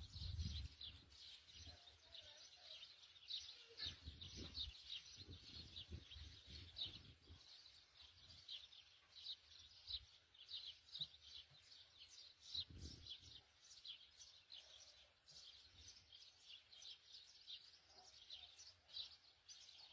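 Faint, rapid high-pitched bird chirping, several short chirps a second with no pause, with a few low rumbles underneath near the start, about four seconds in and about thirteen seconds in.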